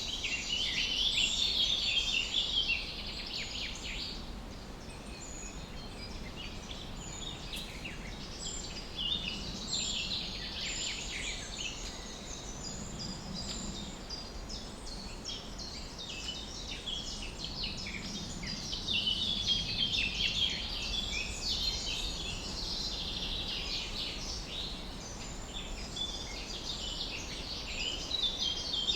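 Many small birds chirping and singing at once, with dense, overlapping short calls that grow busier in a few stretches, over a steady low background noise.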